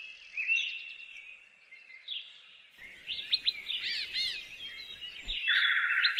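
Small songbirds singing and chirping, several short whistled calls overlapping, with a louder buzzy trill near the end; the background changes abruptly twice, as at edit cuts.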